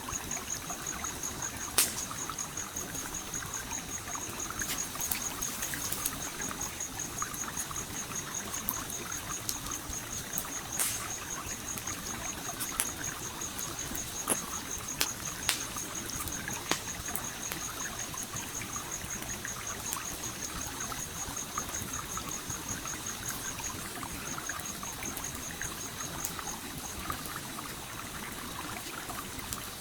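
A stream flowing steadily, with a campfire crackling in occasional sharp pops. A high, rapid pulsing chirp runs underneath and breaks off briefly near the end.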